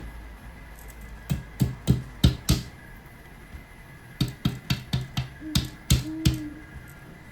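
A series of sharp taps and knocks at uneven intervals: a handful about a second in, then a quicker run from about four seconds on.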